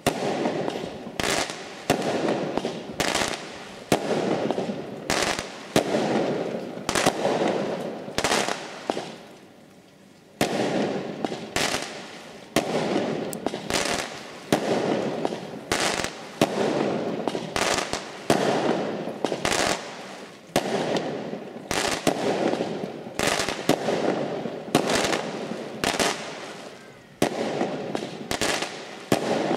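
Aerial fireworks bursting in quick succession: sharp bangs, often several a second, each trailing off in a rolling echo, with a short lull about ten seconds in.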